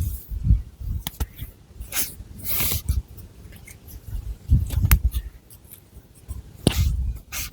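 Long fingernails scratching and rubbing through thick long hair and across the scalp in irregular strokes, some brushing and hissy, some low and thudding from the hair and hands moving close to the microphone.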